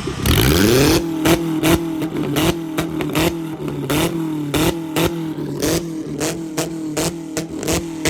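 Car engine revved hard, rising quickly in pitch and then held at the top of its revs against the rev limiter, stuttering and popping about three times a second.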